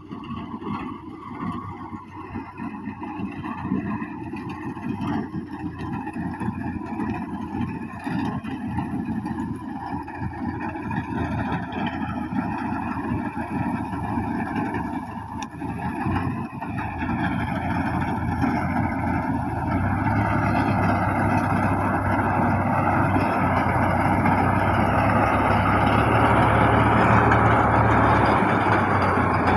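Fiat Al-Ghazi diesel tractor engine running steadily, growing noticeably louder about two-thirds of the way through.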